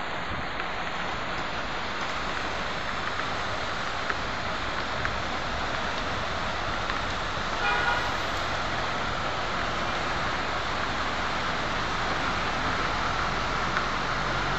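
Steady rushing hiss of rainwater, with a few faint ticks and a short pitched tone about eight seconds in.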